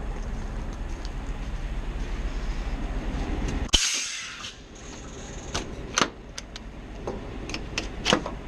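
Scania R520 V8 truck running with a steady low rumble, then a sharp click and a short burst of compressed-air hiss about four seconds in, after which the rumble drops away. Several sharp clicks follow near the end.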